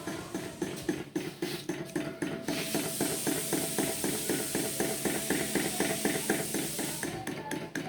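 Antique table fan mechanism running with a quick, regular ticking of about six strokes a second. A steady hiss joins from about two and a half seconds in and stops near the end.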